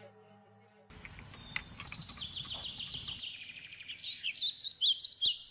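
After about a second of near silence, birds chirping over a steady noisy background: a fast run of quick chirps, then from about four seconds in louder, separate chirps about three a second.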